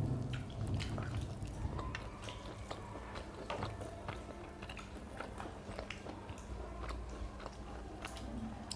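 Close-up eating sounds of people chewing fried fish and rice by hand: scattered wet smacks, small crunches and clicks of mouths and fingers.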